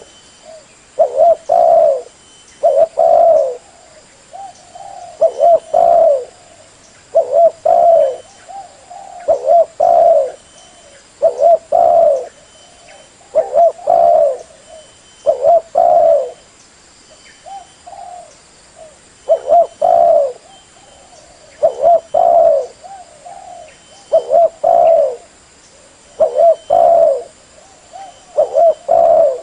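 Spotted dove (terkukur) cooing its song over and over: short phrases of a few low notes, repeated about every two seconds.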